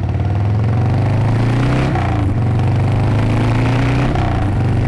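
Harley-Davidson motorcycle's V-twin engine accelerating through the gears. The pitch rises, drops with an upshift about two seconds in, rises again, and drops with another shift near the end.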